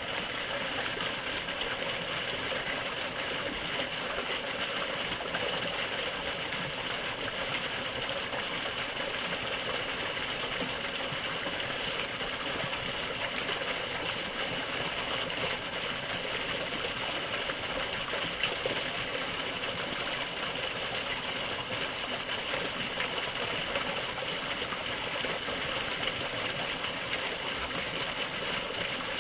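Steady rushing of falling water, an even, unbroken hiss.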